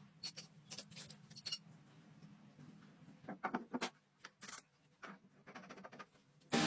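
Scattered light metallic clicks and clinks of metal tools or parts being handled, over a faint low hum that fades out about four seconds in.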